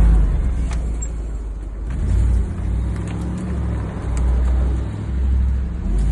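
Mercedes-Benz SLR Stirling Moss's supercharged V8 driving off, a deep engine note that swells and eases several times as the car accelerates.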